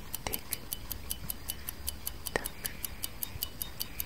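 Clock tick-tock sound effect: a steady, fast run of small, high ticks, with a louder, deeper tock about every two seconds.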